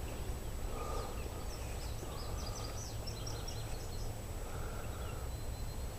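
Small birds chirping, a quick run of short high notes for about two seconds, with a few softer lower calls around it, over a steady low background rumble.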